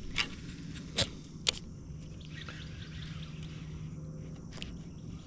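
Three sharp clicks or taps, one near the start, one about a second in and one half a second later, over a steady low hum and faint outdoor background.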